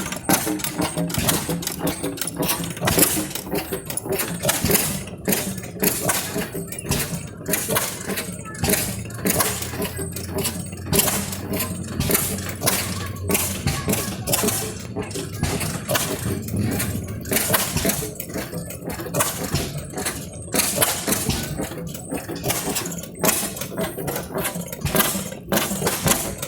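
Old engines running, with a steady low hum and many irregular sharp knocks and clanks, against faint background voices.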